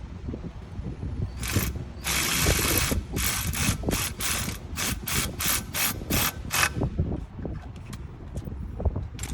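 Ratchet wrench clicking as a brake caliper bolt is tightened: a longer run of clicks, then a series of short back-and-forth strokes about three a second, stopping about seven seconds in.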